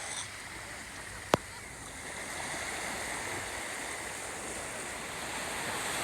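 Black Sea waves washing steadily onto the beach, with one sharp click just over a second in.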